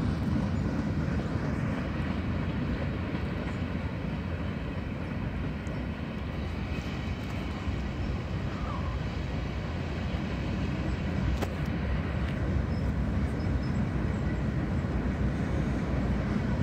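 Freight train cars rolling past on the rails with a steady low rumble, the level dipping slightly midway and rising a little near the end.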